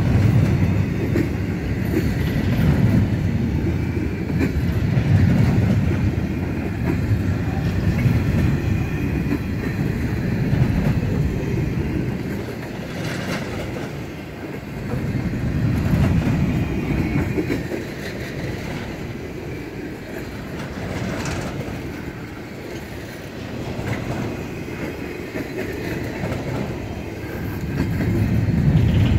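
Double-stack intermodal well cars rolling past on steel rails: a steady low rumble with wheel clickety-clack, swelling and fading as cars go by, and a couple of sharp clanks midway.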